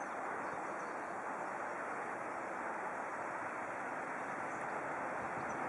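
Steady rushing noise, slowly growing louder: a distant freight train of container wagons, hauled by an SNCF BB 7200-series electric locomotive, approaching along the line.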